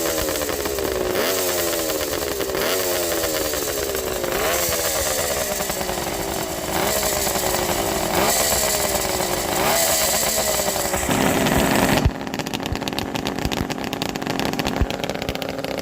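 Kawasaki H1 500's two-stroke triple engine with expansion-chamber exhausts, blipped repeatedly, rising quickly in pitch and falling back about every second and a half. About twelve seconds in the sound changes abruptly to a quieter, uneven running.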